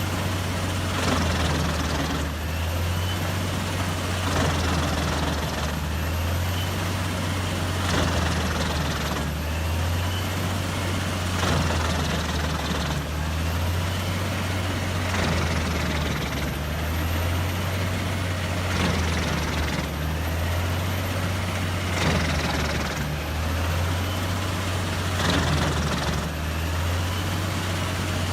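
Heavy forestry wood chipper running steadily. Its low engine hum swells and eases in a regular rhythm about every second and a half.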